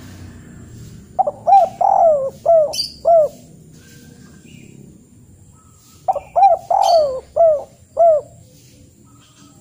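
A bird calling in two phrases of five short notes each, every note rising and then falling in pitch, the phrases about five seconds apart.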